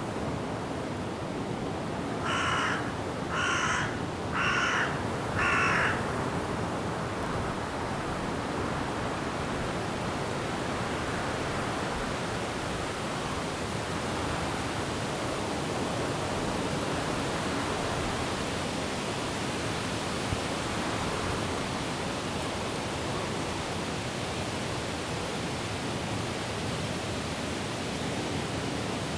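A crow gives four harsh caws about a second apart, the loudest sounds here, over a steady rush of wind and rain in the trees.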